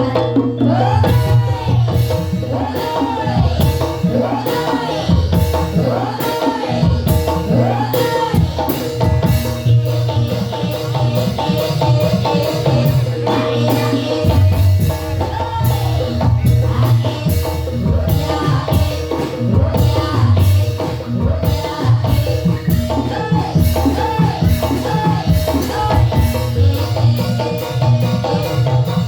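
Banyumas gamelan music of the kind that accompanies an ebeg trance dance, with sustained metallophone tones and a busy drum beat running throughout.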